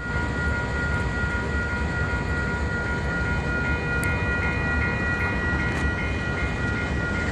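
Level-crossing warning bell ringing with a steady repeated beat, its high ringing tones held throughout, over a steady low rumble. The gates are down and the signals are still active for a train that has stopped.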